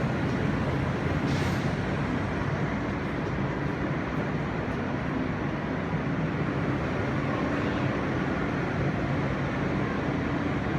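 R160 subway car running along the line, heard from inside the car: a steady rumble and rushing noise with no sudden events.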